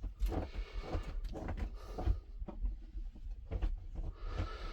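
Handling noise from unboxing the heater: rustling and scraping with scattered knocks and bumps, and a low rumble underneath.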